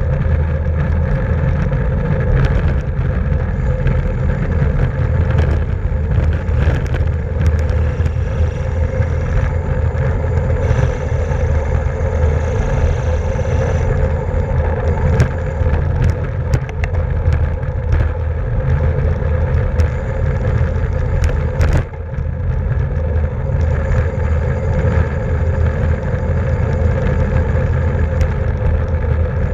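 Steady wind rush and road noise on a racing bicycle's onboard camera at speed, with a constant hum underneath and scattered sharp clicks.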